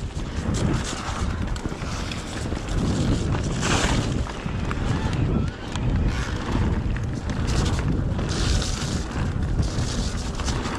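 Wind buffeting the microphone of a mountain biker's camera while riding: a steady low rumble with short bursts of hiss a few times.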